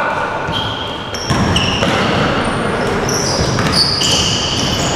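Court sounds in a sports hall during a game: rubber-soled shoes squeaking repeatedly on the floor and a ball bouncing, in an echoing hall.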